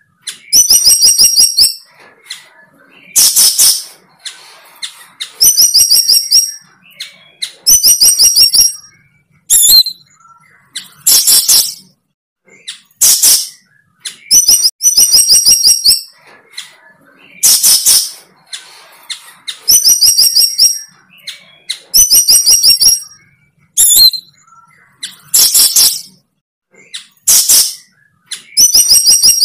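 A bird calling loudly and close by: short, high-pitched chirping trills repeated about every one to two seconds.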